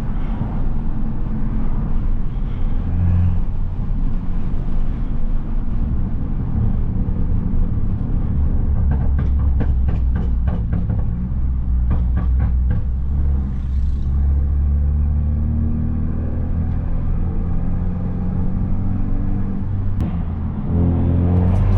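Straight-piped, turbocharged Mercedes-Benz C250 exhaust and engine droning steadily while driving, with a run of quick ticks about halfway through. Near the end the pitch rises as the car accelerates.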